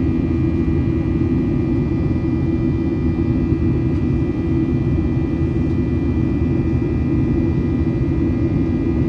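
Inside the cabin of a Boeing 737-900ER climbing after takeoff: the CFM56-7B engines give a steady, loud rumble with thin steady whine tones above it.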